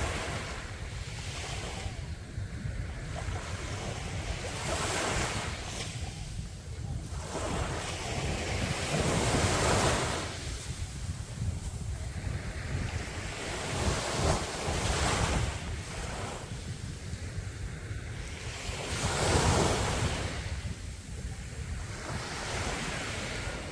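Sea waves breaking on a beach, the wash swelling and fading about every four to five seconds over a steady low rumble of wind on the microphone.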